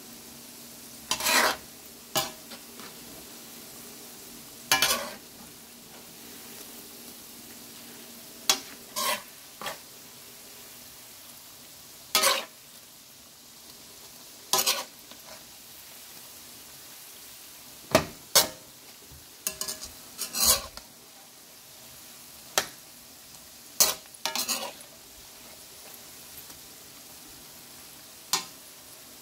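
Fish balls and kikiam frying in oil in a metal wok, a steady sizzle under the loud scrape and knock of a utensil against the pan every couple of seconds as they are stirred.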